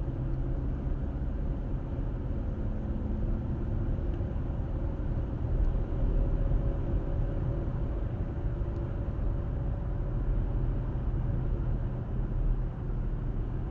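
Car driving at steady speed, heard from inside the cabin: a constant low rumble of tyres, road and engine, with a faint steady hum running over it.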